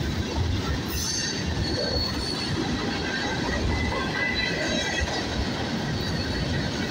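Freight train cars rolling past at close range: a steady rumble of wheels on rail, with faint high-pitched wheel squeal that comes and goes.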